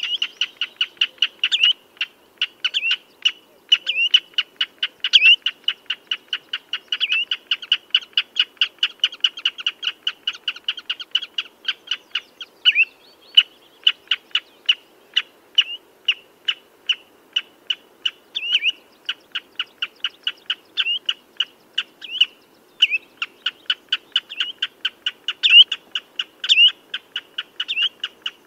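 Common redshank calling: a continuous rapid run of short, high piping notes, several a second, with louder slurred notes standing out now and then.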